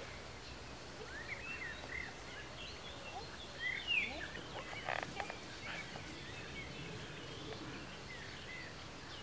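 Small birds chirping with scattered short calls, and a louder arching call about four seconds in.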